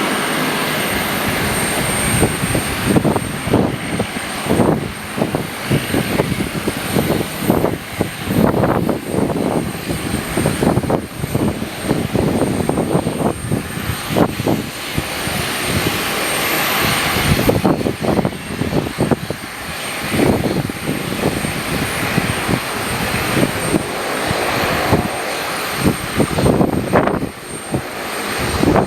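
Aircraft engines running, with gusty wind buffeting the microphone in irregular bursts.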